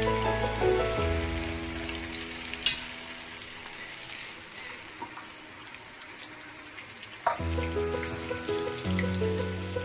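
Food sizzling as it fries in hot oil, heard on its own in the middle with a sharp click near the start, and under background music at the beginning and again from about seven seconds in.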